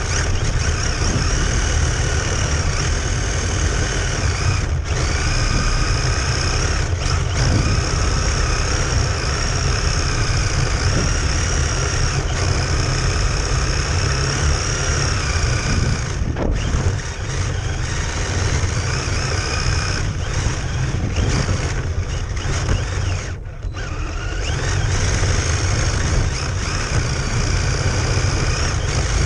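Radio-controlled cars' motors whining and shifting in pitch as they drive on ice, over a steady low rumble.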